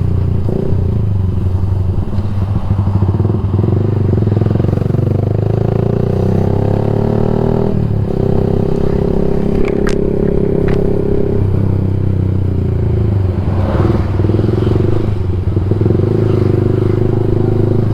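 Yamaha MX King 150's single-cylinder four-stroke engine running through a Rob1 TGA aftermarket exhaust while riding. The pitch climbs as it accelerates, drops at a gear change about eight seconds in and again a few seconds later, then holds steady.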